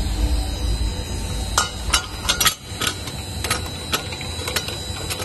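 The double sigma-blade mixer's motor and blades running in reverse, then winding down and stopping about two and a half seconds in. A series of sharp clicks and knocks runs through the second half.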